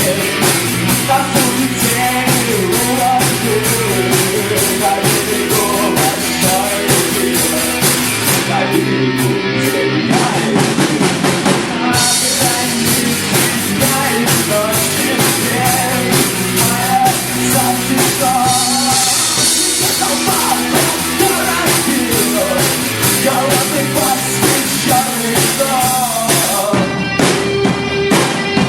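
Live rock band playing: a drum kit keeps a steady beat under electric guitar and other instruments.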